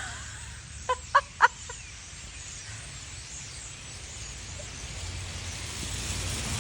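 A large flock of migrating birds calling in the trees: three short, loud calls in quick succession about a second in, over a faint steady background of many birds chattering.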